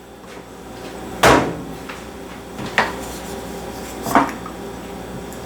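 Three sharp knocks of cookware about a second and a half apart, the first the loudest, over a steady low kitchen background.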